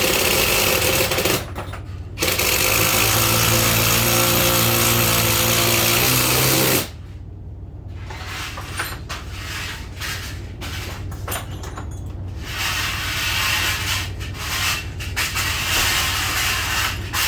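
Power tool running loudly. It cuts out for about a second near the start, runs again with a rising hum, then stops about seven seconds in, leaving quieter irregular work sounds.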